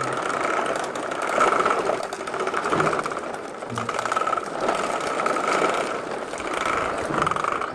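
A vehicle's motor running steadily with a fast, even pulsing whine as the fully loaded truck drives off.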